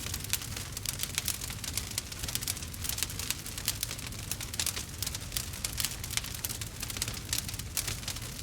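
Wood fire crackling: a dense, irregular run of small sharp pops over a low steady rumble.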